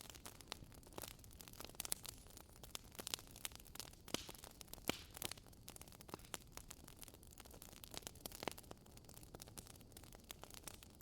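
Wood fire in a fireplace crackling: many small irregular snaps and pops over a soft hiss, with a few louder snaps about four to five seconds in.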